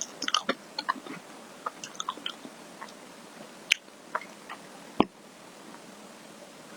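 Close-miked eating of soft ice cream: wet mouth clicks and smacks of chewing, scattered and irregular, with two louder sharp clicks a little over halfway through.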